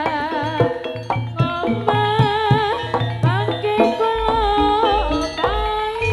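Live Javanese jaranan band music: a wavering lead melody with vibrato over drum and percussion strikes. Deep drum beats come in about four seconds in.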